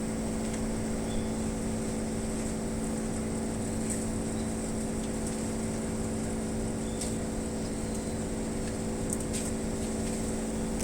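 Air-conditioner outdoor unit running with an abnormal noise: a steady hum made of several fixed pitches, with a faint high whine above it and a few light ticks.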